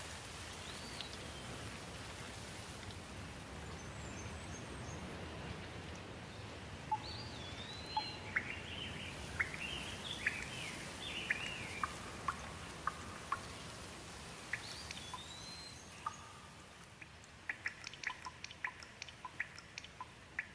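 Steady rain with birds calling over it: short, swooping whistled notes through the middle. Near the end the rain thins and separate sharp drips tick several times a second.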